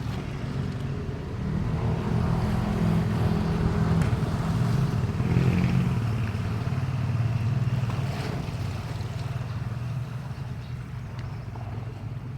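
A motor engine's steady drone, growing louder over the first few seconds and then slowly fading, as if passing by.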